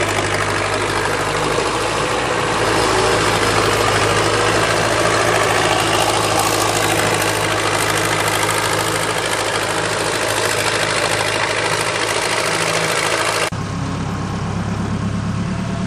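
Backhoe's diesel engine running steadily with a dense mechanical clatter. Near the end the sound switches abruptly to a smoother, lower engine hum.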